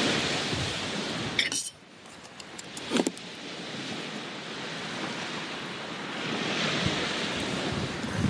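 Wind and sea surf making a steady rushing noise that drops sharply about two seconds in and then builds again. A few sharp clicks and a knock come in the first three seconds.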